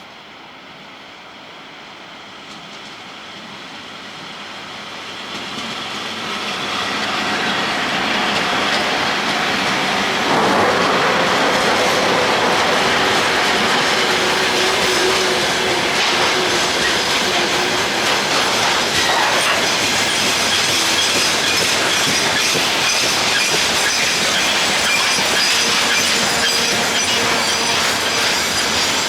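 VL80S electric locomotive hauling a freight train, approaching and growing louder over the first eight seconds or so, then running past steadily with the wagon wheels clattering along the rails.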